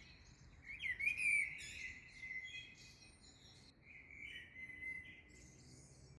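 Small songbirds chirping and singing together at dawn, with a loud burst of quick chirps about a second in. The sound cuts off suddenly at the end.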